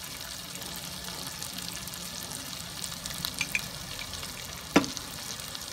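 Pork belly, onion and tomato sautéing in a wok with a freshly added dollop of shrimp paste: a steady sizzle of hot fat. A single sharp knock comes near the end.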